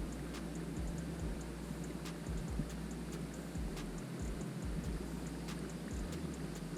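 Fishing reel being cranked on a retrieve: faint, even ticking about three to four times a second, with a few sharper clicks, over a low steady hum.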